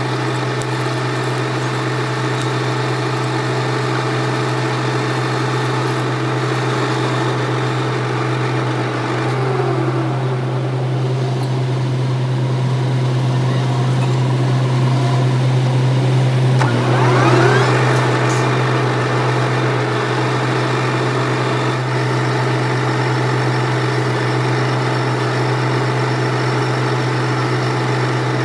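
Metal lathe running steadily with a deep, even hum. A brief gliding whine comes twice, about a third of the way in and again past the middle.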